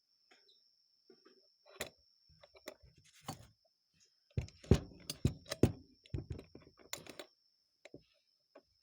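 Small carburetor parts being handled and fitted by hand on a workbench: irregular clicks and light knocks, busiest and loudest from about four to seven seconds in.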